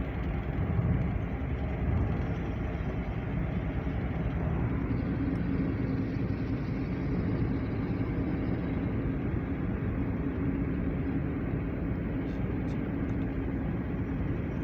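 A moving road vehicle's engine and road noise as a steady drone, with a steady low hum that comes in about four and a half seconds in and holds.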